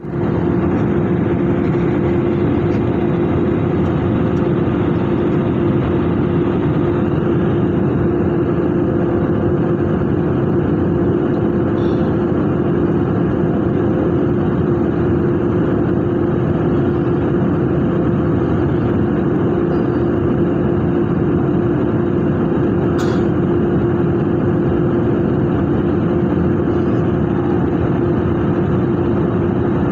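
Steady jet-engine and airflow noise of an Airbus A320-216 with CFM56 engines, heard from inside the cabin. A constant loud rush carries a steady mid-pitched hum, with no change in level.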